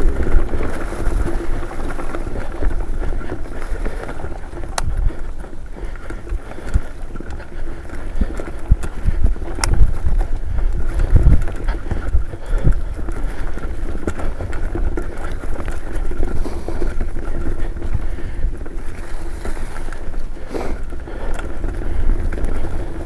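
Mountain bike riding down a dirt trail: continuous tyre rumble and wind buffeting the microphone, with a few sharp clicks and rattles from the bike.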